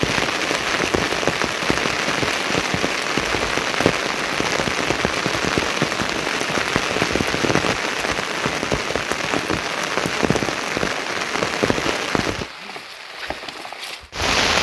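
Heavy rain falling on a hard surface: a dense, steady hiss of many drop strikes. It drops to a softer patter about twelve and a half seconds in, then comes back loud suddenly near the end.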